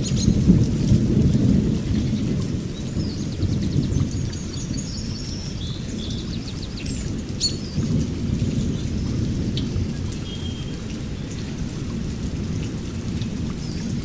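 A steady low rumbling noise, loudest in the first couple of seconds, with short high chirps and squeaks over it.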